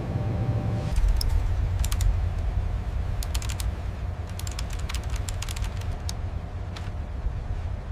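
Groups of quick, sharp clicks over a steady low rumble.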